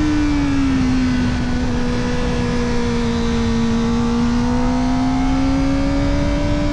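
Kawasaki Ninja ZX-4RR's 399 cc inline-four running at steady high revs through an Arrow Indy Race Evo titanium exhaust with the dB killer fitted. Its pitch dips slightly about half a second in, holds, then climbs gently near the end, over a low wind rush.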